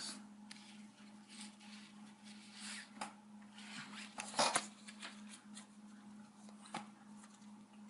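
Playing cards being handled on a table: a scattering of soft slides, rustles and light taps as piles are picked up and cards set down, over a steady low hum.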